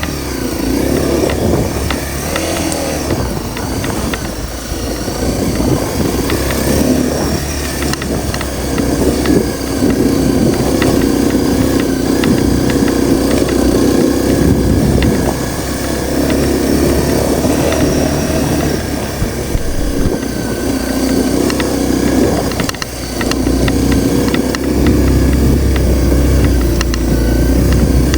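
Honda CRF250L's single-cylinder four-stroke engine running while the bike is ridden, its note rising and falling with the throttle and dropping briefly about three-quarters of the way through.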